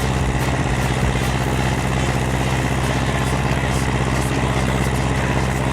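Ursus C-360 tractor's four-cylinder diesel engine running at a steady, constant speed.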